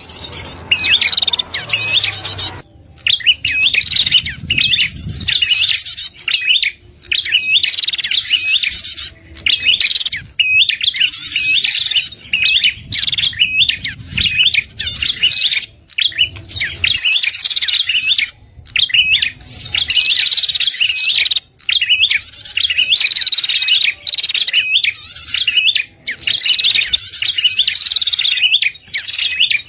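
Prenjak song played as a lure call: rapid bursts of sharp, hooked chirps with a buzzy upper part, repeating about every second with short gaps.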